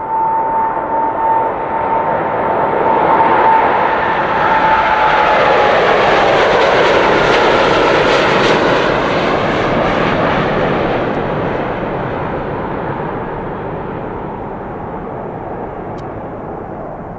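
Boeing 787-8 Dreamliner's twin turbofan engines at takeoff power as the jet passes close by. A high whine sits over the rumble and drops in pitch about four seconds in as the aircraft goes past. The roar peaks soon after, then slowly fades as it climbs away.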